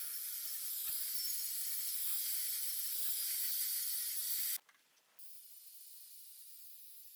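A steady high hiss that cuts off suddenly about four and a half seconds in; after a brief gap, a much fainter hiss carries on.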